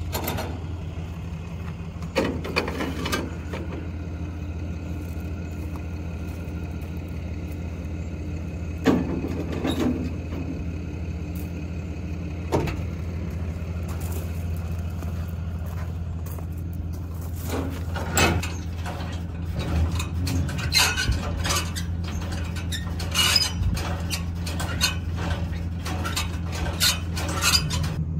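Ram 3500 dually's 6.7-litre turbo diesel running as a steady low drone, with scattered clicks and knocks that come more often in the second half.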